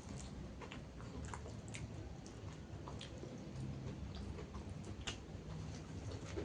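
Close-miked chewing of raw vegetables and fried fish for a mukbang, with irregular short crisp crunches and mouth clicks over a low steady hum.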